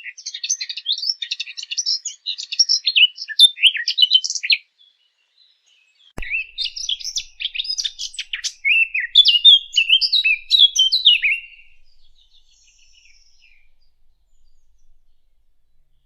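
Sylvia warbler (the 'fig bird') singing: two bursts of fast, rich warbling song, the second starting about six seconds in with a soft click. Only faint song follows near the end.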